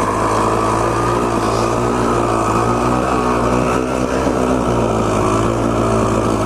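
Two-stroke Honda CR250R dirt bike engine running steadily under way, its pitch sagging a little about halfway through and picking up again.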